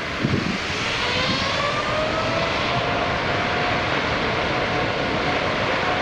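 Jet airliner's engines running at high power for takeoff: a steady roar with a whine that rises in pitch over the first few seconds, then holds steady.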